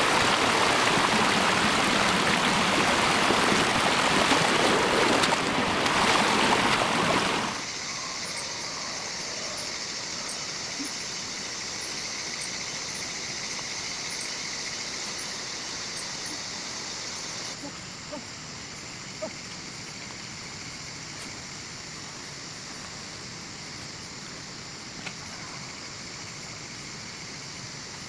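Loud, steady rushing of water that cuts off abruptly about seven seconds in. After it comes a much quieter steady high hiss with a few faint clicks.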